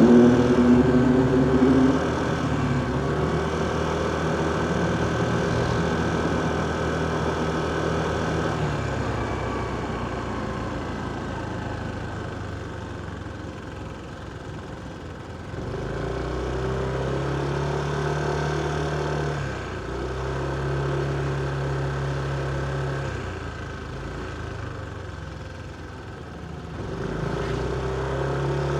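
Motorcycle engine and surrounding traffic in slow stop-and-go riding: the engine settles low through the middle, then picks up again about halfway through and twice more near the end. A louder pitched sound fades away in the first couple of seconds.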